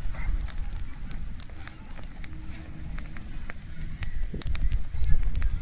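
Small wood-and-straw campfire burning, with irregular sharp crackles and pops, over a low rumble.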